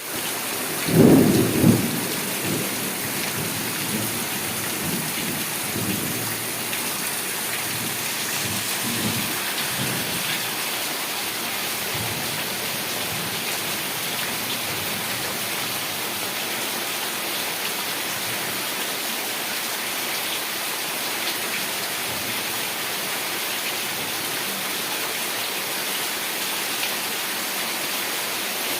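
Heavy rain falling steadily, with a loud clap of thunder about a second in and fainter rumbles of thunder over the next several seconds.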